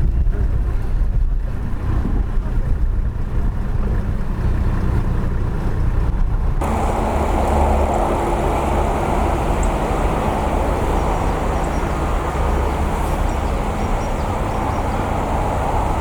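Steady low outdoor rumble with wind on the microphone. About six and a half seconds in it switches abruptly to a fuller, steady rush, as at a cut between shots.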